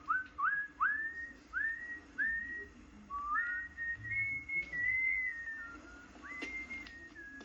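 A person whistling a tune: a run of single notes, each sliding up into its pitch, climbing over the first few seconds and then wandering up and down.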